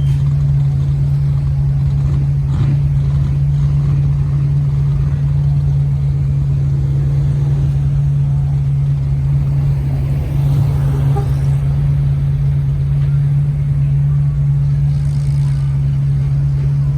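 A steady low engine hum, unchanging in pitch and loudness, with faint scattered sounds above it.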